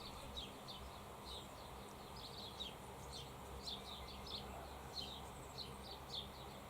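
Faint, high bird chirps, short and falling in pitch, repeating irregularly over a low steady hum.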